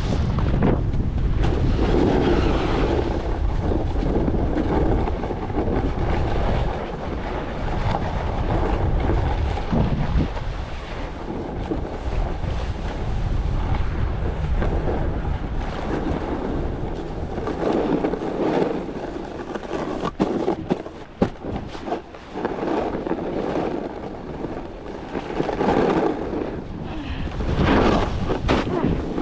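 Wind rushing over the microphone while descending a ski slope, with the hiss and scrape of edges on snow swelling and fading every few seconds as the turns come.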